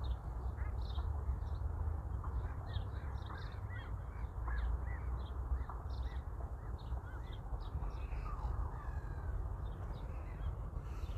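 A flock of birds calling: many short, overlapping calls repeating several times a second, over a steady low rumble.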